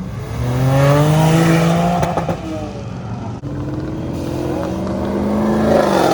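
Car engine accelerating hard as it drives off: revs climbing, a break with a short crackle about two seconds in like a gear change, then the revs climbing again.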